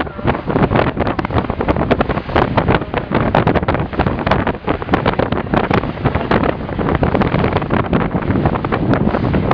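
Wind buffeting the microphone hard and unevenly aboard an open speedboat under way, over the rush of its engine and the water.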